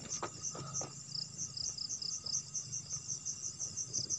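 Crickets chirping in a steady, rapid high pulse, about six chirps a second, over a low steady hum, with a few faint taps in the first second.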